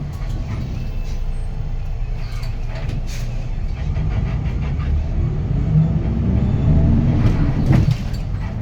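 Hyundai Green City bus's D6GB diesel engine, heard from inside the cabin, running under way with a steady low rumble. Over the last few seconds its note rises as the bus accelerates, then drops back sharply near the end.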